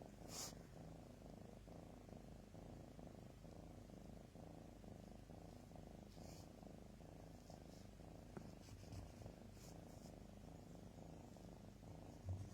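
Faint, steady cat purring, low and even. There are a few soft bumps near the end.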